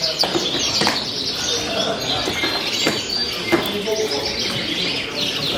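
A dense chorus of many small cage birds chirping and twittering at once, with a few sharp clicks scattered through it.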